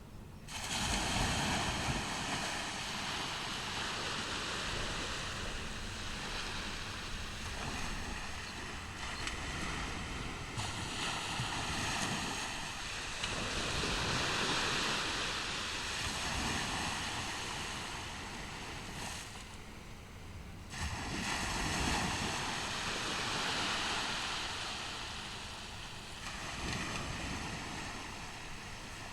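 Ocean waves breaking on a beach, the surf washing in and out in slow swells and ebbs.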